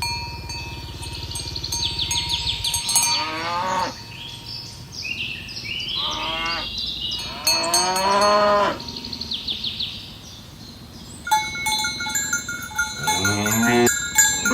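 Cows mooing several times, each moo a long drawn-out call of a second or two, with steady metallic ringing like cowbells behind them.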